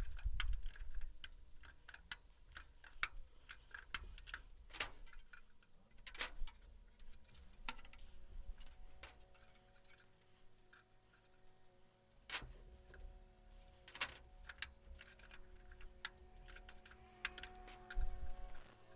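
Light, irregular metallic clicks and taps from hand tools working aluminium aircraft parts. A faint steady hum runs underneath from about halfway through.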